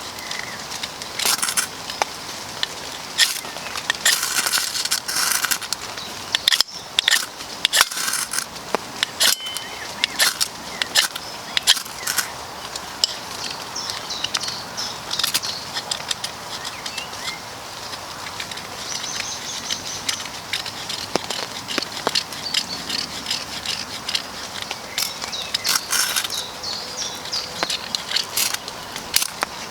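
Ferrocerium rod scraped again and again in short rasping strokes to throw sparks onto birch bark, with rain falling steadily.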